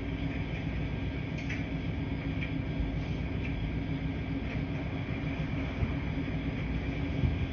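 Laundry-room washing machine running: a steady low rumble and hum, with faint light ticks every second or so.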